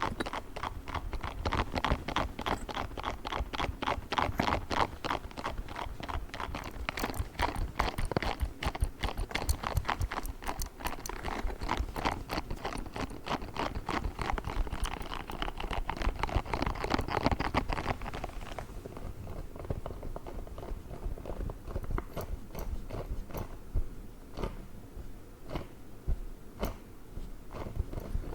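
A pink spiky ball being handled, giving fast crunchy clicks for most of the stretch. About two-thirds of the way through they thin out to sparse, separate clicks.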